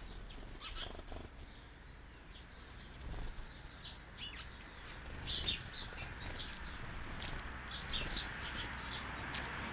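Small bird chirping: short, high cheeps that come irregularly, some in quick clusters, over a hiss that grows louder near the end.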